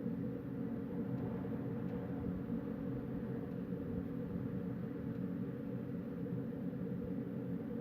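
Wind blowing steadily at night: a continuous low rushing rumble that wavers slightly in level, with no gusts or breaks.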